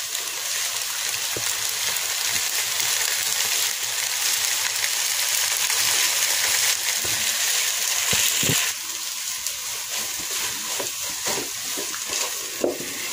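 Egg noodles frying in a metal pot, with a steady sizzle that drops off about nine seconds in. After that come scattered light knocks and scrapes of a wooden spoon stirring them.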